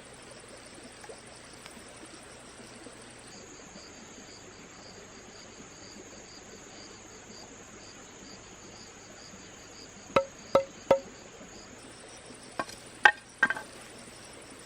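A steady high-pitched insect chorus buzzing throughout, its pitch stepping down slightly and later back up. Near the end come six sharp knocks with a hollow, ringing tone, in two quick groups of three, the loudest sounds present.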